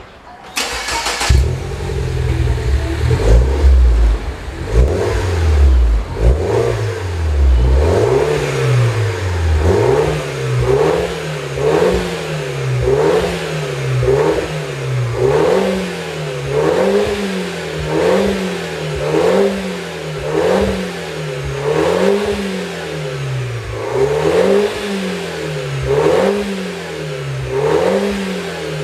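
MINI Clubman engine heard through a one-off custom muffler with sliced-ring tips, starting about a second in and then revved over and over, its note rising and falling about once a second.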